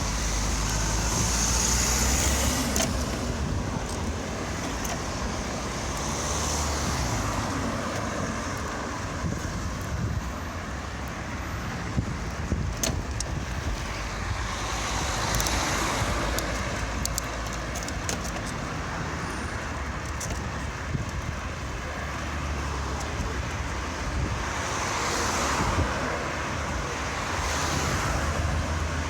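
Road traffic: cars passing every few seconds, their noise swelling and fading over a steady low rumble, with a few sharp clicks about halfway through.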